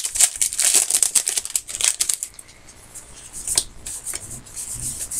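Trading-card pack wrappers crinkling and cards rustling as packs are opened and handled: dense rustling for about two seconds, a quieter spell with one sharp tick, then more rustling near the end.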